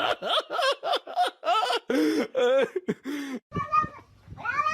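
A person giggling in a quick run of short, high-pitched bursts. Near the end a cat starts a long, drawn-out yowl.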